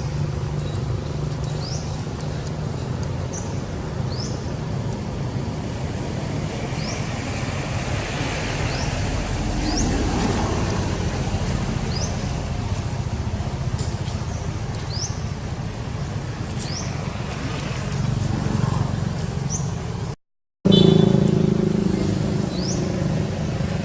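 Short, high, rising chirps repeating about once a second over a steady low rumble, with a brief cut to silence near the end.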